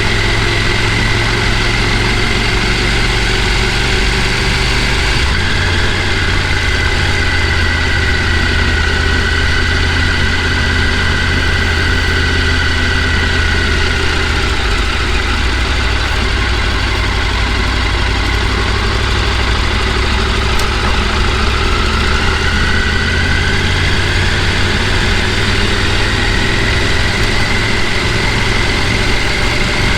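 A vehicle engine running steadily: a constant low drone with a faint high whine that drifts slowly up and down in pitch.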